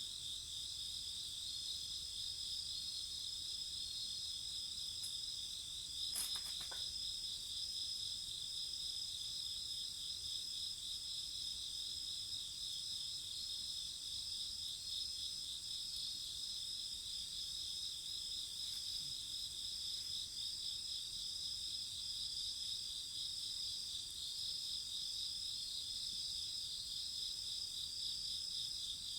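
Crickets chirping steadily in several high, pulsing trills. One sharp crack about six seconds in, from the bonfire popping.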